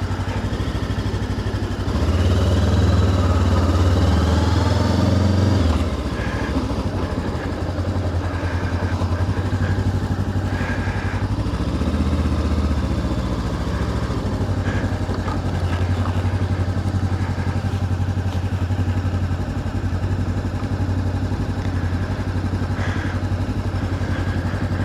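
Voge DS525X's parallel-twin engine running at low speed. About two seconds in it picks up, rising in pitch and growing louder, and near six seconds it drops back to a steady, even run.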